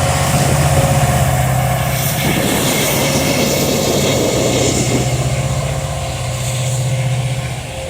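Diesel freight locomotive running with a steady low engine drone, joined by a rushing noise from about two seconds in that fades out about five seconds in.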